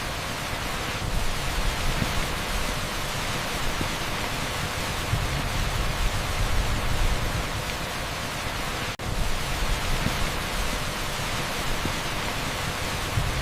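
Heavy downpour on an asphalt street, heard as a dense, steady hiss like pink noise with a deep low rumble under it. The sound cuts out for an instant about nine seconds in, then carries on unchanged.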